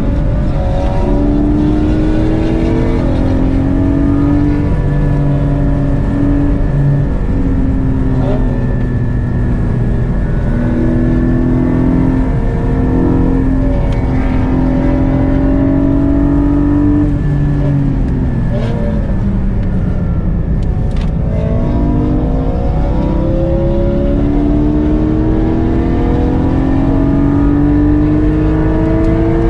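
Porsche Cayman GT4's flat-six engine heard from inside the cabin, pulling hard through the gears on track. The pitch climbs and steps down at each upshift, falls away as the car slows about two-thirds of the way through, then climbs again under acceleration.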